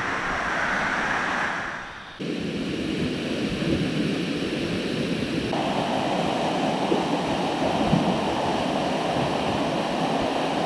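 Steady rush of falling water from a waterfall, its sound changing abruptly about two seconds in and again about halfway through.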